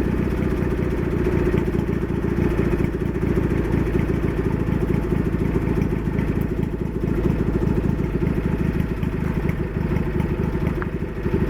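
Craftsman GT6000 garden tractor engine idling steadily. The idle is set low enough that the owner wants to raise it.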